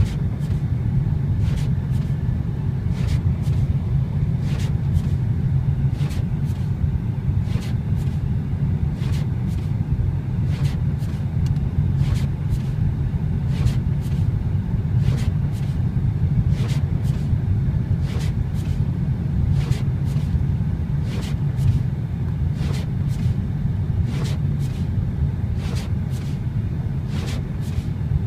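Steady low rumble of a car running, with scattered sharp ticks about once or twice a second.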